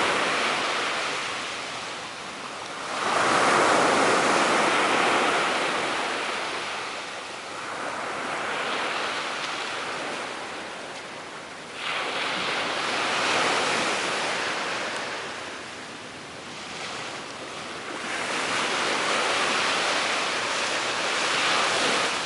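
Sea surf: waves breaking and washing up on the shore, swelling and fading every four to six seconds.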